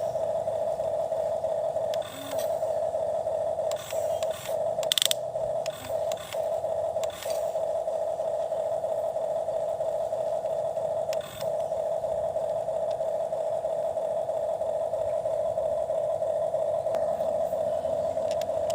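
Toy excavator's small electric motor and gearbox whining steadily at one pitch, with brief stops and clicks a few times in the first dozen seconds as the arm or bucket moves.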